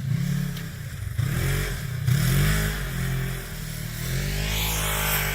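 A motor vehicle's engine revving, its pitch rising and falling several times.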